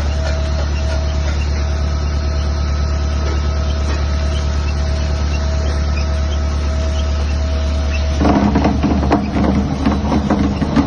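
R200 mortar pump running with a steady machine hum and drone. About eight seconds in, a louder, rapid irregular clattering and knocking joins it.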